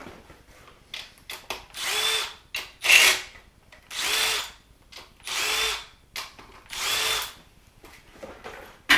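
Cordless power driver run in about five short bursts, the motor spinning up and winding down each time, backing out bolts on a 6.0 LQ4 V8 engine. There is a sharp click near the end.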